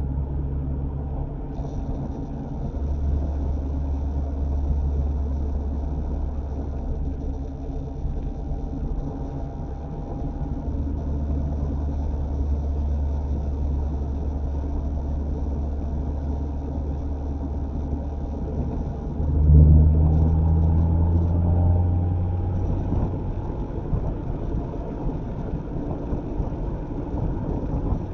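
Mazda MX-5 ND's four-cylinder engine and road noise heard from inside the cabin while driving, a steady low hum. About two-thirds of the way through it gets suddenly louder with a rising note, then eases back.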